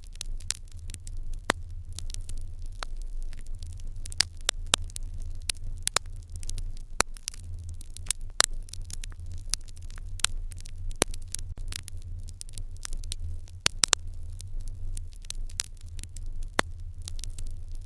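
Wood fire crackling in an irori hearth: frequent, irregular sharp pops and snaps over a steady low hum.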